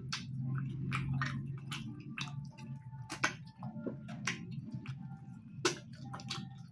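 Close-miked eating: irregular wet mouth clicks and smacks of chewing, a few a second, over a steady low hum.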